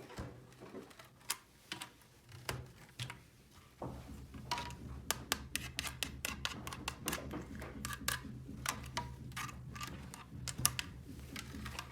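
Small hard plastic toy pieces being handled, with quick irregular clicks and taps that come thicker after about four seconds. A low steady hum starts at about the same point.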